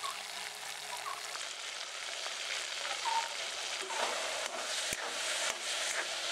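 Chicken pieces sizzling as they are dropped into hot coconut oil in an aluminium wok, then stirred with a metal spoon. The spoon knocks against the pan a few times in the second half.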